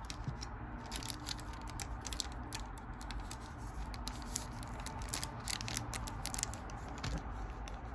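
Pokémon trading cards and a foil booster pack being handled: a run of light crinkling and flicking ticks as the cards are shuffled and sorted, over a low steady room hum.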